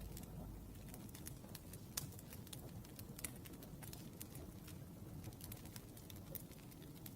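Wood fire crackling: irregular sharp pops and snaps over a soft low rumble, one pop about two seconds in standing out.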